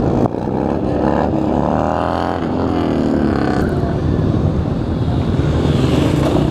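Motorcycle engines running over a steady low rumble of many bikes, with an engine's pitch rising twice in the middle as it revs up, the second time cutting off sharply.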